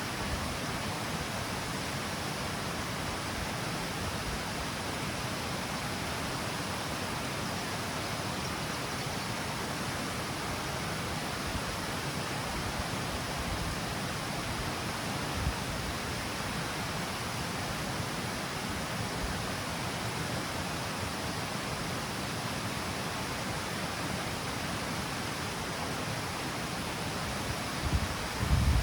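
Water pouring steadily over the stepped, L-shaped cascade of the Mijares river: a constant, even rush. A brief low thump about halfway through, and a few louder low thumps near the end.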